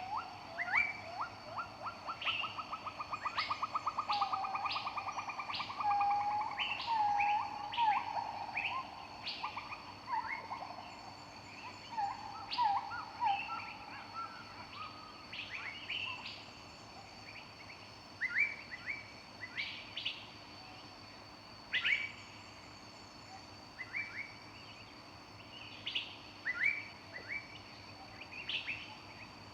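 Several forest birds singing, with short, sliding chirps and whistles throughout and a fast rattling trill during the first few seconds.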